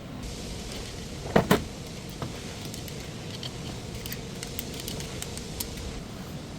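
Two sharp knocks in quick succession about a second and a half in, followed by scattered light clicks over a steady background noise.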